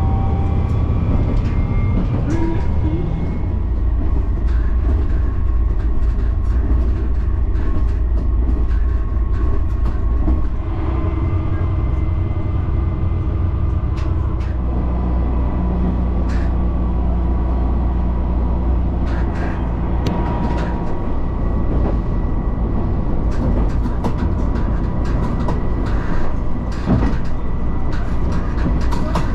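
Diesel railcar of the Nagara River Railway running along the line: a steady low engine rumble with scattered clicks from the track. The engine's tone shifts about halfway through.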